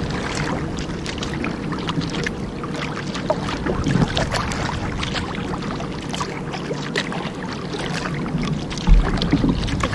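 Kayak paddling: paddle blades dipping and splashing with water lapping against the hull, with one low thump near the end.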